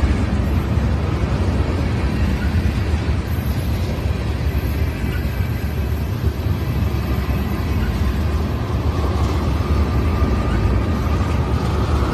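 A loaded train of ethanol tank cars rolling past close by, its wheels on the rails making a steady, loud rumble.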